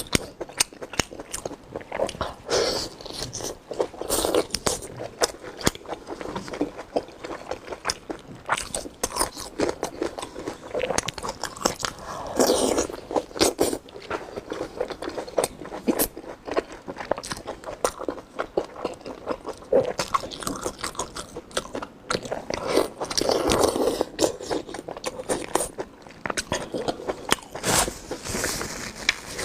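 A person biting and chewing food with their mouth, a dense run of irregular crunches and smacking clicks, loudest in short chewing bouts.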